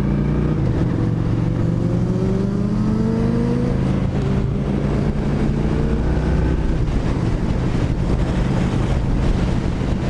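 Motorcycle engine accelerating through the gears: the pitch climbs for about three seconds, drops at a shift, climbs again, then settles to a steady cruise, with wind noise over the microphone.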